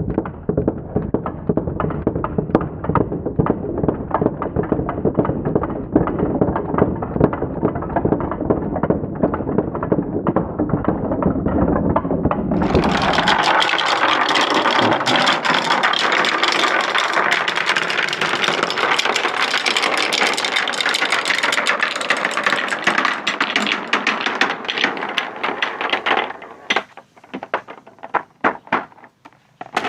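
Many marbles rolling and clattering down a marble-run track: a dense rumble full of constant clicks. About twelve seconds in it changes abruptly to a brighter, higher-pitched clatter. Near the end it thins to scattered clicks as the last marbles pass.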